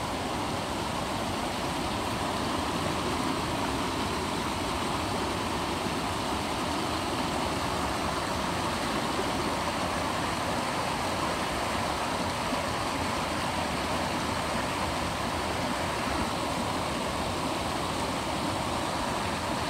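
Small waterfall splashing steadily, an even rushing of falling water.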